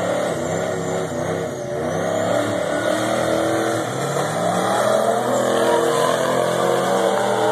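Two cars, a Mazda RX-7 and an SUV, accelerating hard side by side down a drag strip. The engines run at high revs, their pitch climbing, dropping and climbing again several times.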